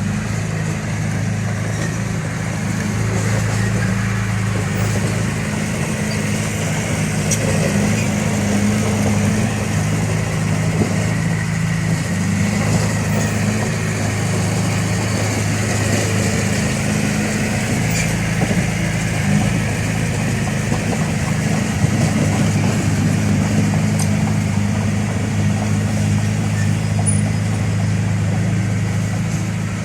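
Diesel engine of heavy earthmoving equipment running steadily, its pitch holding level throughout.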